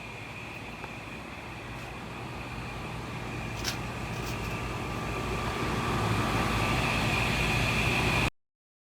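Outdoor air-conditioner condenser units running: a steady whir with a low hum and a thin high whine, growing louder over several seconds, then cutting off abruptly near the end.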